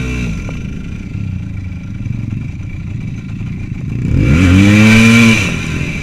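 Motorcycle engine running while riding. Its note drops as the rider eases off at the start, then climbs as the engine revs up about four seconds in. That rev is the loudest part; it holds for about a second and then falls away.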